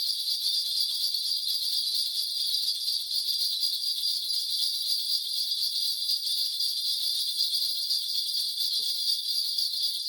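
A shaman's cluster of ritual bells shaken continuously in a steady, rapid, high jingling, as in a spirit medium's divination.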